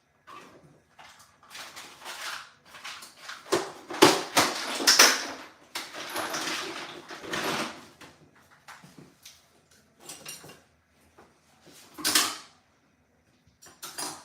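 Irregular handling noises: knocks, scrapes and clatters of parts and tools being moved, loudest about four seconds in and again near twelve seconds.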